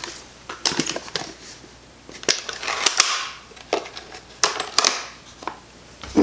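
Graflex Speed Graphic press camera being handled: a string of sharp mechanical clicks and clacks, with short rustles in between.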